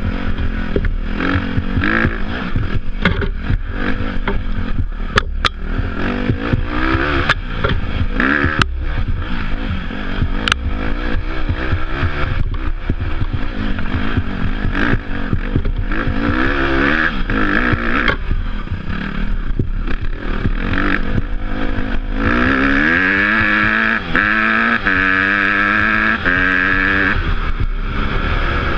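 Dirt bike engine being ridden off-road, revving up and down over and over as the rider works the throttle, with scattered knocks and clatter from the bike over rough ground. From about two-thirds of the way in the engine is pulled hard in a series of rising revs.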